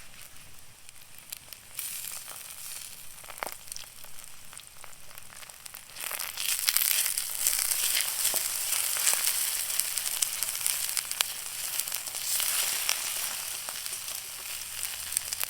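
Food frying in oil in a cast iron skillet over a campfire: a steady sizzle with scattered pops that gets much louder about six seconds in.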